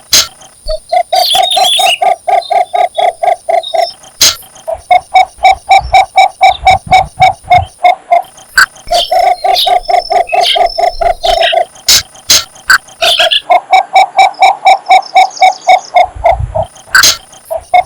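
Cinnamon bittern giving its mating call: long series of rapid, low, even croaking notes, about five a second, in four runs broken by short pauses. Fainter high chirps and a few sharp clicks sound over it.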